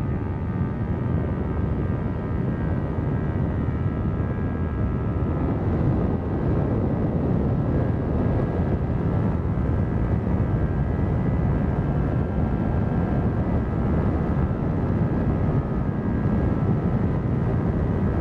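Kawasaki Ninja 400's parallel-twin engine through a Yoshimura exhaust, running at a fairly steady pace while riding.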